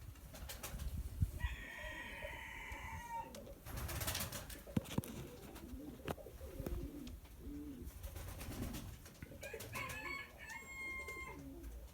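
Domestic pigeons cooing, low wavering coos repeating throughout. A rooster crows about a second and a half in, and a second higher call comes near the end.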